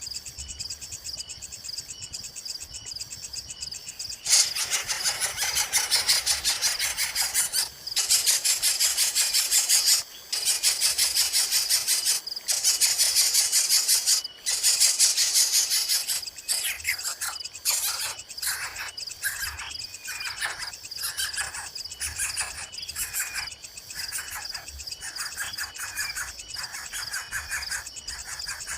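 Steady insect chirring throughout. From about four seconds in there is a loud, rapid rasping buzz in four long bursts. After that come many short chirping calls that drop in pitch, the begging calls of coucal chicks.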